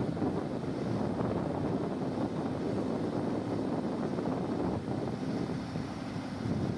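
Diesel engine of a heavy earthmoving machine, such as a backhoe loader or excavator, running steadily with a low rumble and some wind noise on the microphone.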